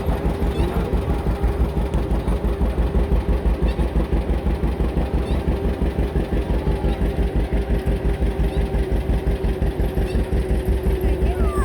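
Tractor engine running steadily with an even low throb.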